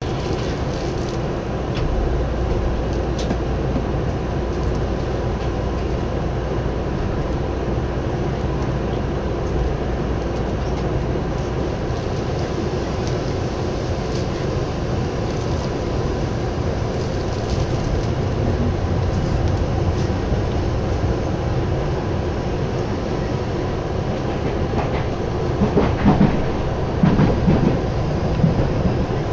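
Interior noise of a Tokyu Oimachi Line train car, a steady rumble and hum while it stands at the platform and then gets under way. Louder wheel clatter on the rails comes in near the end as it picks up speed.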